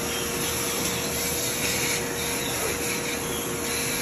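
Air purifier fan running: a steady whoosh with a constant hum.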